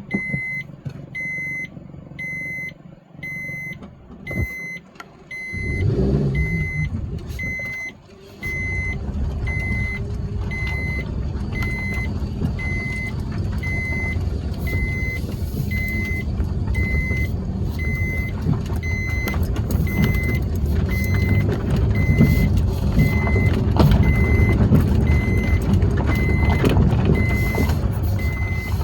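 A vehicle's electronic warning beeper sounds a regular high beep, somewhat more than once a second, throughout. The vehicle's engine starts running loudly about five seconds in, with a short dip near eight seconds.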